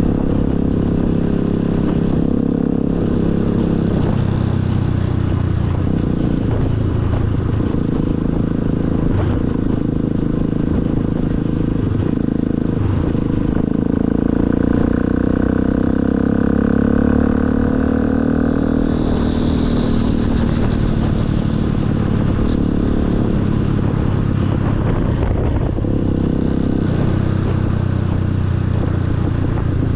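Motorcycle engine running while riding, its note rising and falling with the throttle. It climbs for a few seconds around the middle, then eases off.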